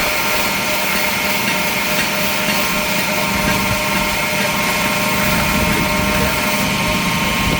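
Knife-making belt grinder running steadily: a constant whirring hum with a few steady whine tones over it, unchanging throughout.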